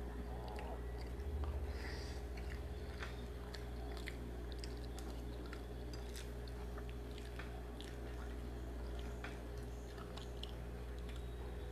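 A person chewing a mouthful of soft instant noodles and sardines close to the microphone: faint irregular wet mouth clicks throughout, over a steady low hum.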